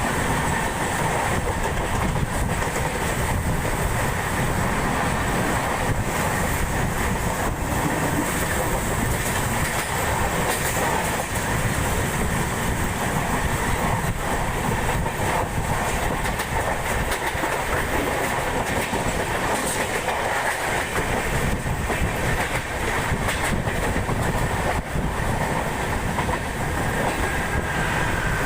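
Passenger train running along the line, a steady rumble of wheels on rails with scattered clicks of wheel clatter, heard from on board.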